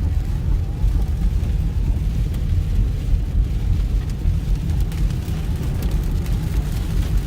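Steady low rumble inside a car driving through a heavy downpour: road and engine noise with rain on the car, and a few faint ticks in the second half.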